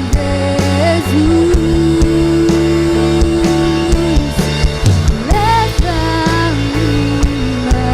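Live worship band playing an instrumental passage: a long held melody line that slides between notes over sustained bass and a steady drum beat.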